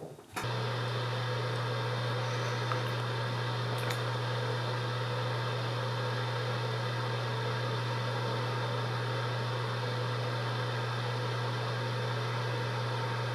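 A steady low electrical or mechanical hum with a hiss over it, starting suddenly about half a second in and holding at one level.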